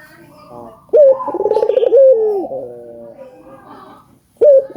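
Barbary dove (burung puter) cooing. About a second in comes one loud coo: a short rising note, a rolling trill, then a long note that falls away. The next coo starts near the end.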